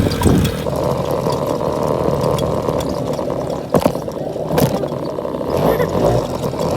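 Suzuki LT50 quad's small two-stroke engine running steadily during a ride, with two sharp knocks about a second apart midway.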